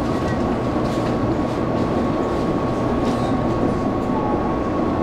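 Taiwan Railways local electric train running, heard from inside the passenger car: a steady rumble of wheels on track with a thin, steady high hum above it.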